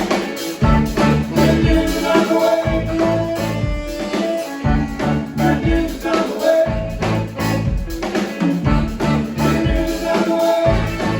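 A live band playing, with a bass line that comes and goes in phrases and drums keeping a steady beat.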